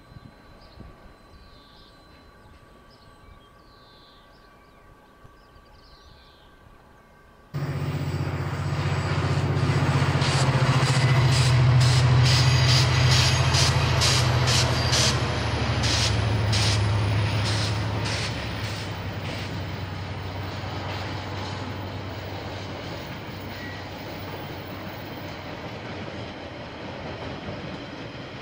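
KiwiRail diesel train passing: the locomotive's engine drones low while the wheels clatter over the rail joints in a quick run of clicks, then the rumble of the passing wagons slowly fades. The sound starts suddenly about seven and a half seconds in, after a quiet stretch.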